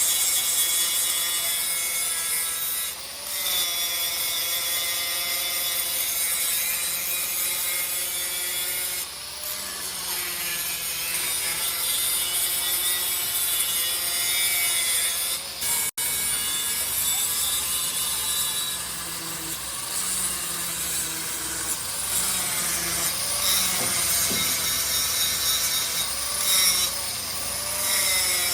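Continuous scraping, grinding noise of metal being cut or machined, with several ringing tones that waver in pitch. The sound breaks off abruptly about halfway through and resumes with a slow low pulse underneath.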